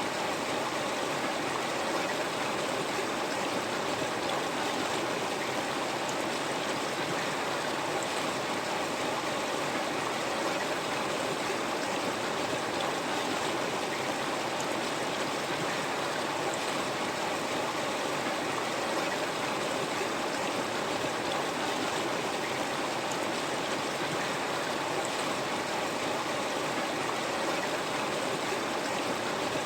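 River water flowing over rocks, a steady, even rush with no breaks.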